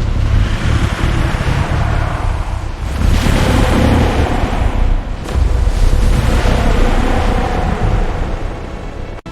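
Loud rushing, rumbling noise with a heavy low end. It swells about three seconds in and again about five seconds in, then eases near the end.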